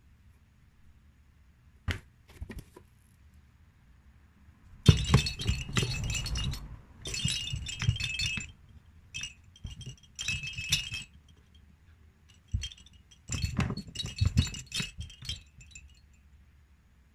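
Small bells on a cat toy jingling in several irregular bursts with soft thumps, as the toy is batted and tossed about.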